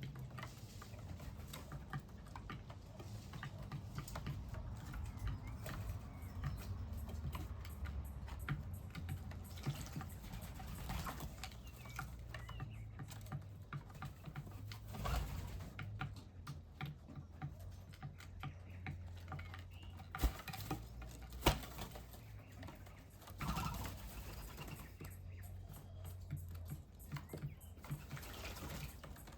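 Birds pecking at food, making rapid irregular light taps and clicks, with a few faint bird calls and a steady low hum underneath.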